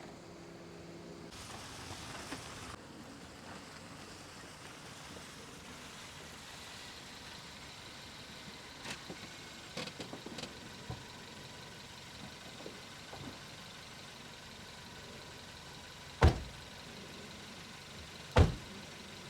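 Suzuki Jimny driving slowly over a rough, potholed dirt track: a steady run of driving noise with scattered small rattles and knocks, then two loud thumps near the end, about two seconds apart.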